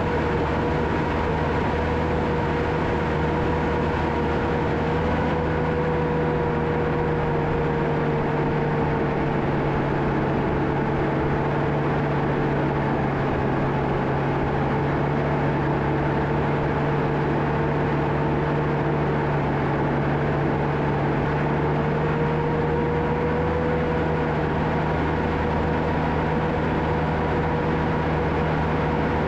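John Deere 650K crawler dozer running steadily under work: a low diesel drone with a whine on top that wavers slightly in pitch.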